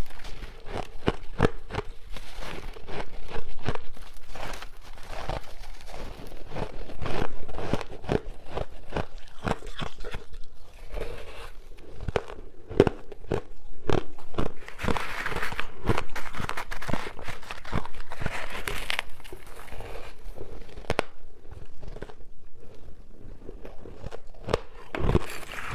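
Close-up crunching of soft, chunky white freezer-frost ice being bitten and chewed: a dense run of crisp, irregular crunches with brief pauses between bites.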